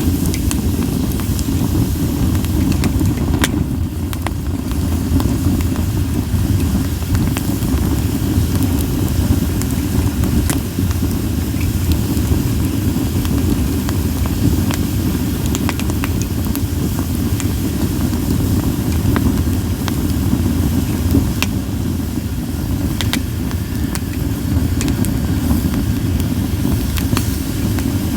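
Campfire of split sawtooth oak (kunugi) firewood burning: a steady low rumble of the flames with scattered sharp crackles and pops at irregular times.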